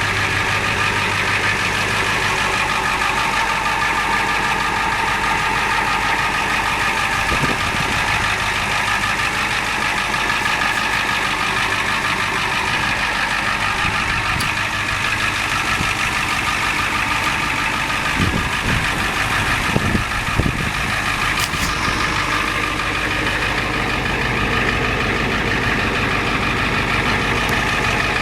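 Ford F350 turbo diesel engine idling steadily, heard at the exhaust, with a few brief thumps about two-thirds of the way in.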